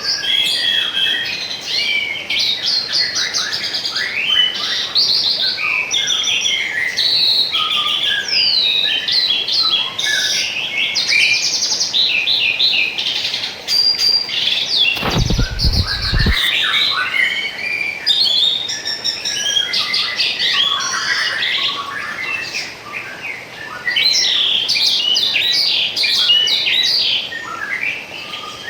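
Many small songbirds chirping and trilling continuously, with calls overlapping, over a faint steady rush of flowing water. About halfway through there is a brief low rumble lasting just over a second.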